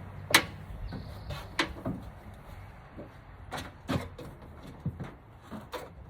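A handful of scattered knocks and clunks, the loudest about a third of a second in, with smaller ones spread through the rest.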